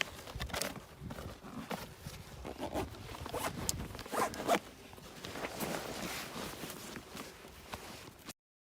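Irregular rustling and scraping with zipper-like rasps. The sounds stop abruptly near the end.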